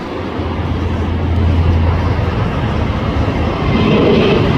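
Engines of a departing Spirit Airlines Airbus A320-family jet at takeoff power: loud, steady rushing jet noise, with a deep hum strongest through the first couple of seconds.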